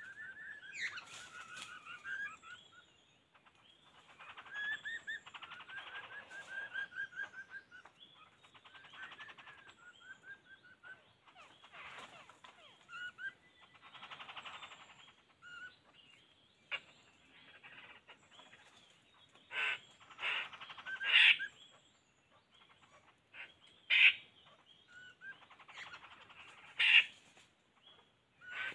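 Small birds chirping and trilling in short repeated phrases, with several loud, sharp, brief calls in the second half.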